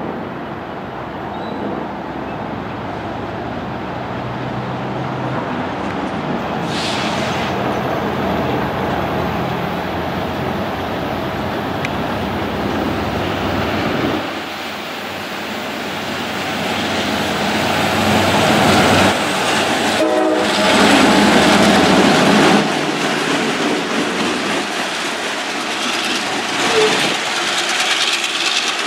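Diesel freight locomotives running as they haul a train past, with wheels clattering over the rails and the sound growing louder as the train nears. About two-thirds of the way through, the horn sounds for a few seconds and then cuts off abruptly.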